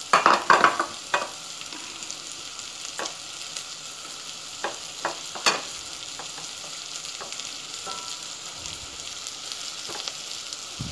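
Chopped onion, garlic and ginger sizzling steadily in butter in a stainless steel pot. A quick run of sharp knocks in the first second or so and a few single clicks later come from stirring against the pot.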